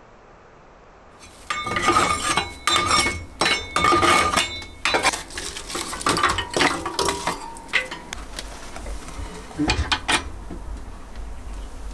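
Metal kitchenware being handled: cutlery and pots clinking and clattering, some strikes leaving a short ringing tone. It starts about a second in and goes on as a string of quick knocks, busiest in the first few seconds.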